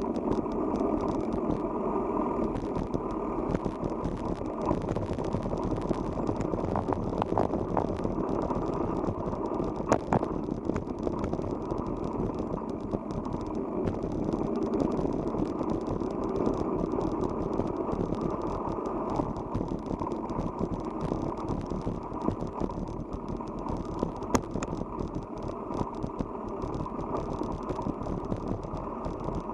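Riding noise from a bicycle in motion: a steady rumble of tyres and air with frequent small rattles and clicks from the bike jolting over the road surface.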